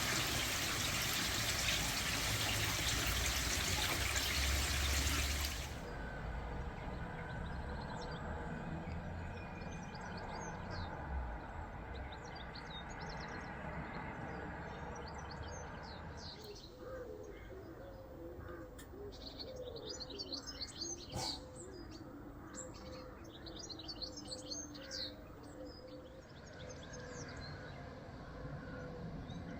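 Water running for about the first six seconds, then cutting off abruptly. Small birds chirp in short bursts of rapid notes, twice.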